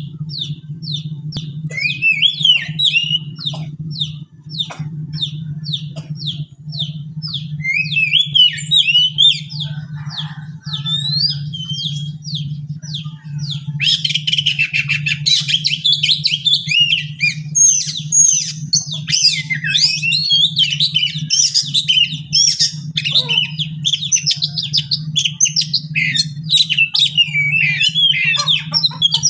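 Oriental magpie-robin (kacer) singing: a run of quick, repeated falling whistled notes, about two a second, then from about halfway a denser, more varied warbling song. A steady low hum runs underneath throughout.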